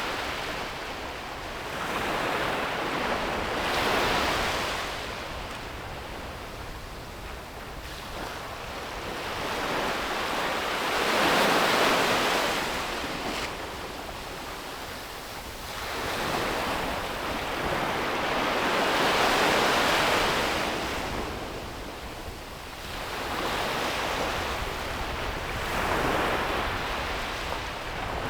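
Sea waves breaking on a beach, the surf rising and falling in about five swells of rushing noise. A steady low wind rumble on the microphone runs underneath.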